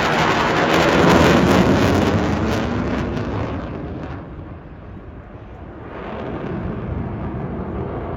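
Jet noise of a Eurofighter Typhoon's two turbofan engines as it passes, loudest about a second in, dying away by about four seconds, then building again.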